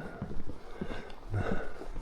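Footsteps on a wooden boardwalk, an uneven run of soft knocks on the boards, with a brief low voice-like sound about halfway through.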